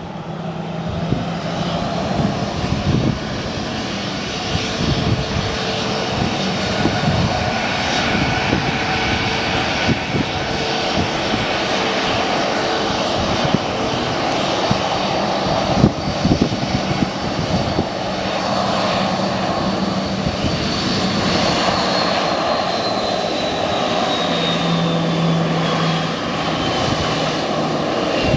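Boeing 737-800's CFM56-7B turbofan engines running at taxi power: a steady jet noise with a high whine that slowly falls in pitch over the last several seconds.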